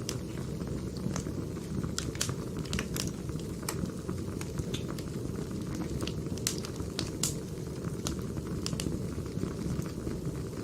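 Crackling wood fire: a steady low rumble of burning logs with irregular sharp crackles and pops, several a second.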